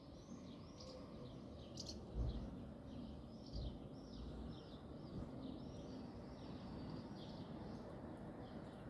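Small birds chirping over and over in short arched chirps, with a faint background hiss. Two dull low thumps come about two and three and a half seconds in.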